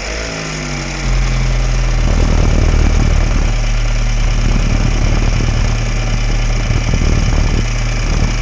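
BMW N20 2.0-litre turbocharged four-cylinder engine just started, its revs falling from the start-up flare over the first second or two, then idling steadily.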